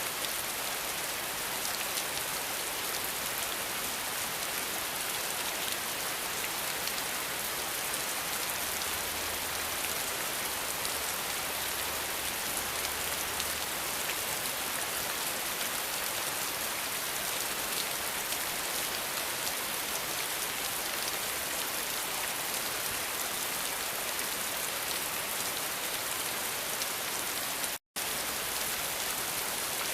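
Steady rain falling, an even, dense hiss. It cuts out for a split second near the end.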